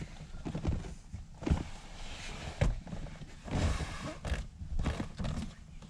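Irregular knocks and thuds from someone moving about and handling things, with a short rustling stretch about three and a half seconds in.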